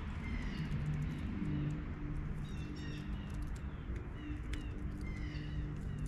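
Birds chirping in short runs of quick falling notes, about every two and a half seconds, with scattered sharp clicks and taps over a steady low hum.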